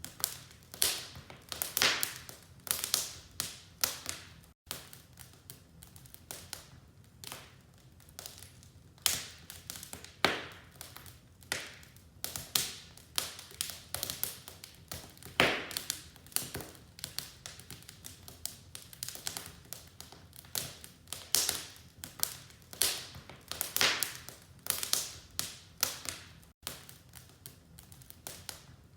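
Wood fire in a fireplace crackling, with sharp, irregular pops a few times a second over a faint low rumble.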